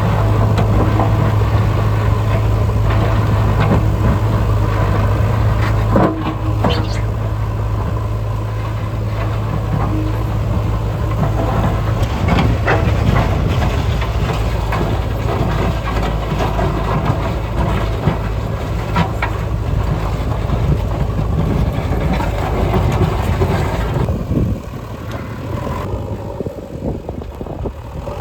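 Diesel engines of heavy construction machinery running with a steady low drone, with a few sharp knocks and clanks. The sound drops and gets quieter about twenty-four seconds in.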